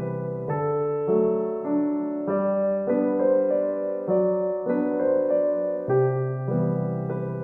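Soft background piano music, gentle notes and chords struck about every half second to second, each one fading as it rings.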